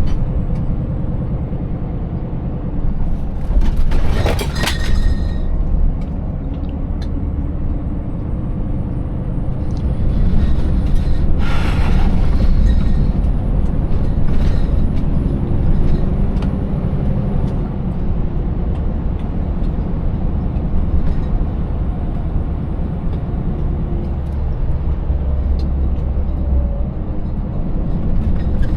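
Scania 590S truck's V8 diesel engine running under way with a steady low rumble, pulling an empty trailer over a rough road. Two brief hissing bursts come about four and twelve seconds in.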